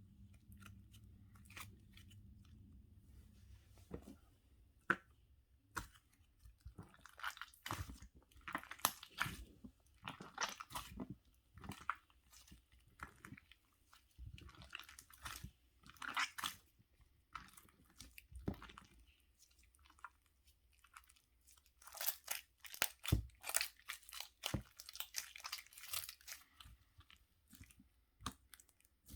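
Close-up irregular crisp crunching and clicking, sparse at first and busiest near the end.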